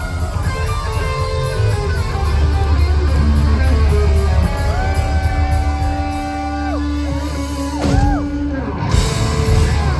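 Live rock band playing with loud electric guitars and heavy bass, the guitar holding long bending notes, with two sharp hits about eight and nine seconds in as the song winds down.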